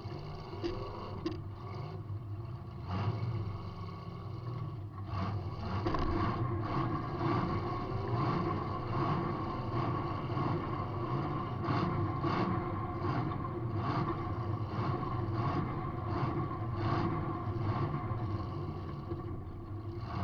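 Demolition derby car's engine running, heard from inside the car, with frequent short clanks and rattles from the battered car.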